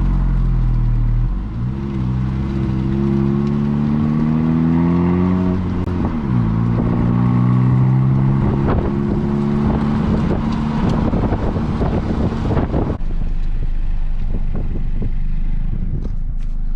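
2017 Honda Civic Si's turbocharged four-cylinder on its stock exhaust, pulling through the gears: the engine note climbs, drops at upshifts about a second in and about six seconds in, then climbs slowly again. About thirteen seconds in the engine note falls away as the car lifts off and coasts.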